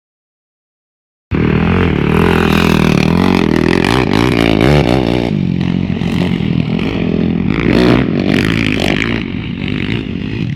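Motocross motorcycle engines revving hard, pitch rising and falling as they accelerate and change gear; the sound cuts in abruptly about a second in.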